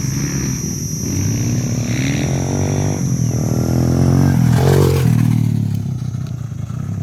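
Motocross bike engines revving up and down, the pitch climbing and dropping several times and loudest about four to five seconds in, over a steady high-pitched whine.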